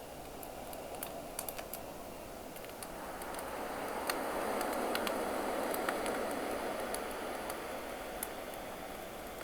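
Campfire crackling, with irregular sharp pops, over the wash of ocean waves; a wave swells up and falls away in the middle.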